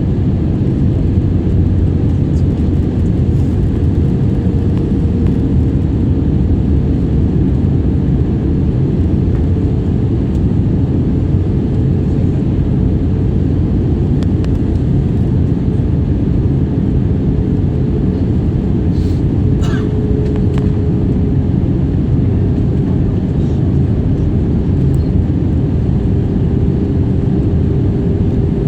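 Steady jet airliner noise, a Wizz Air Airbus A320-family jet, with a constant low rumble and a faint hum that drifts slightly lower in pitch.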